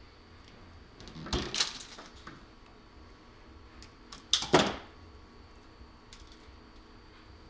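A hand crimping tool and wire connectors clicking and clattering in two short bursts, about a second in and again near the middle, as wire joints are crimped.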